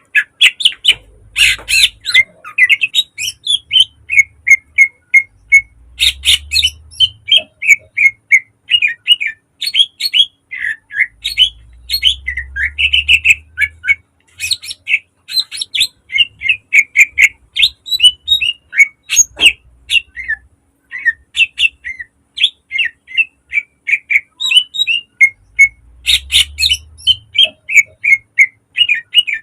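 Green leafbird (cucak ijo) singing a fast, unbroken stream of short sharp chirps, whistles and trills, the varied mimicked phrases kept as "isian" in its song.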